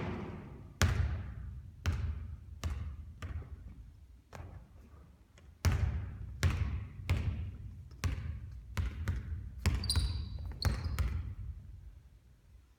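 Basketballs bouncing on a court floor, in two runs of bounces that come quicker and fainter as the ball settles. A brief high squeak is heard about ten seconds in.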